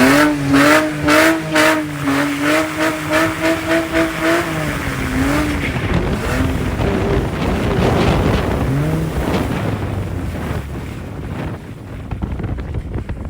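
Straight-piped Honda Accord engine revved hard and held at high revs, its note pulsing a few times a second and the pulses quickening, then dropping back about five seconds in. A rushing noise with only brief engine tones follows.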